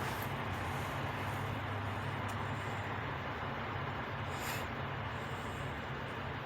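Truck engine left running at a steady idle, a continuous low hum. A brief hiss comes about four and a half seconds in.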